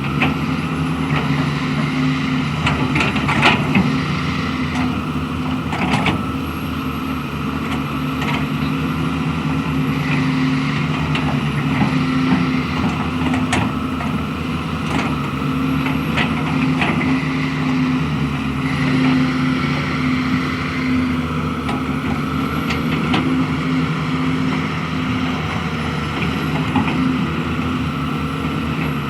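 Hydraulic excavator's diesel engine running steadily under load, with scattered metallic clanks and knocks from the bucket and arm working the soil.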